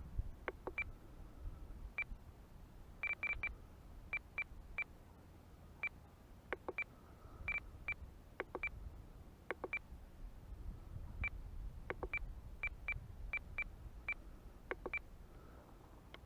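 FrSky Taranis radio transmitter beeping as its aileron settings are stepped: short high beeps at irregular intervals, some singly and some in quick runs of two or three, over a low rumble.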